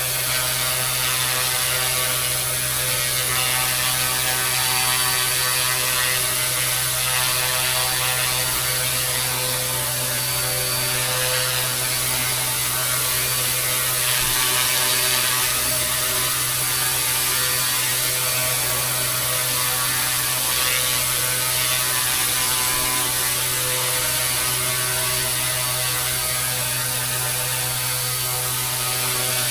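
GOOSKY S2 micro RC helicopter with twin brushless direct-drive motors, its rotors running at a constant speed: a continuous mechanical whir whose pitch holds steady throughout.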